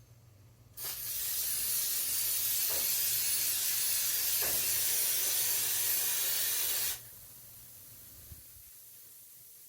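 Aerosol can of air-conditioner cleaning spray hissing in one continuous spray of about six seconds, starting and stopping abruptly.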